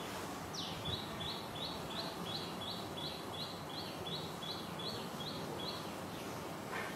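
A bird calling: a steady run of about fifteen short, high chirps, roughly three a second, that stops near the end, over a steady background hiss.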